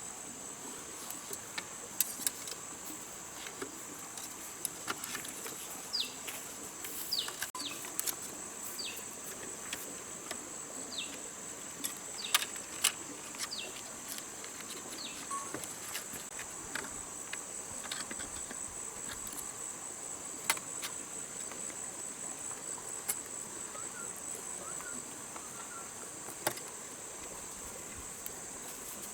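Steady high-pitched insect chorus, crickets or cicadas, with scattered sharp clicks and knocks and a few short high chirps.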